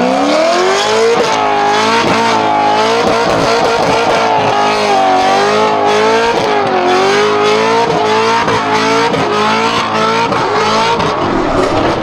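Car engine revving up hard in the first second, then held at high revs that waver up and down for about ten seconds, with tyre squeal under it, dropping off right at the end.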